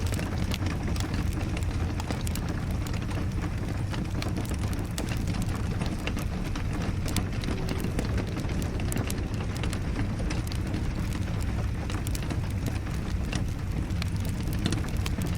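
Wood fire crackling, with irregular sharp pops over a steady rush of rain and a constant low rumble.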